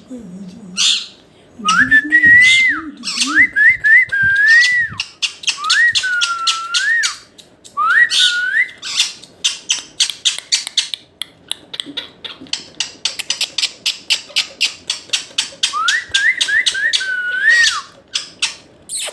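Pet green parrot whistling short notes that sweep up and fall, in a run during the first half and again near the end, between a steady stream of quick harsh clicks and rasping chatter.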